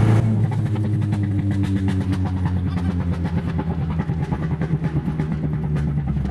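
Car engine running at low speed, its note pulsing fast and unevenly.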